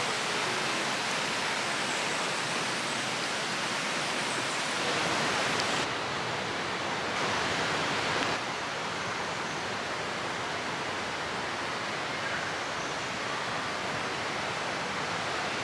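Mameyes River rushing over rocks, a steady hiss of moving water whose tone shifts abruptly a couple of times.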